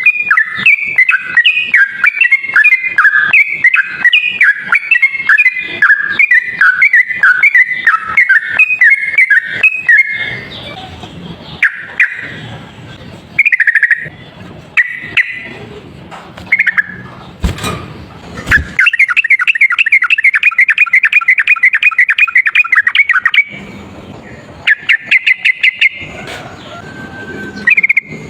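Yellow-vented bulbul (trucuk) singing in fast, continuous chattering runs of bubbly notes. The runs break off about a third of the way in for a noisier stretch with short phrases and a sharp click, then start again.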